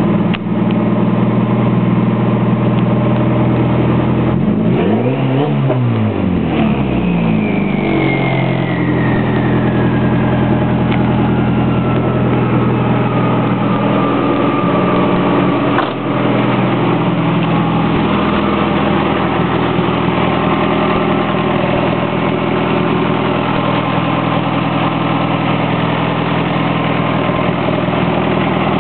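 Turbocharged 1998 Saturn's 1.9-litre four-cylinder idling through a 3-inch open downpipe, loud and noisy. About five seconds in it is revved once, up and back down, and then the turbo's whistle falls slowly in pitch over several seconds as it spins down; a short click comes near the middle.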